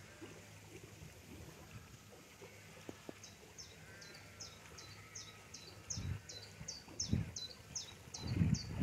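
A bird calling a quick series of short, high, sharply falling notes, about three a second, starting about three seconds in. A few low thumps come near the end.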